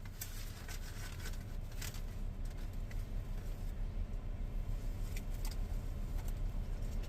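A dog chewing a chicken nugget and smacking its lips: scattered sharp clicks over a steady low rumble, getting a little louder and more rhythmic in the second half.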